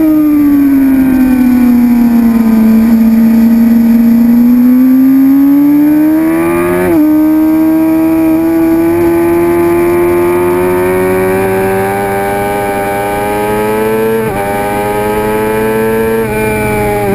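2006 Suzuki GSX-R750's inline-four engine on a racetrack lap: its revs fall over the first few seconds as the bike slows, then climb as it accelerates hard, with brief breaks at gear changes about seven and fourteen seconds in.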